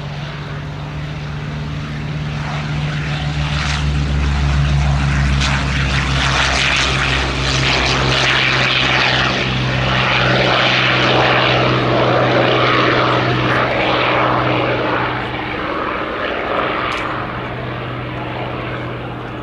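Rolls-Royce Merlin V12 piston engine of a WWII propeller fighter passing in flight. It grows louder over the first few seconds, stays loud through the middle, then eases off as it moves away, with a slight drop in pitch as it goes by.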